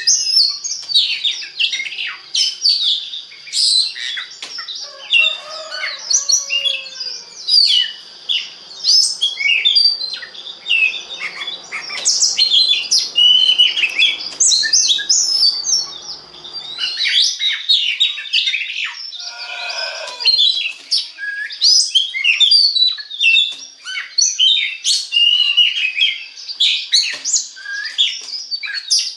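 Oriental magpie-robin (kacer) singing a long, varied song of quick chirps, trills and whistles, hardly pausing, over a thin steady high tone.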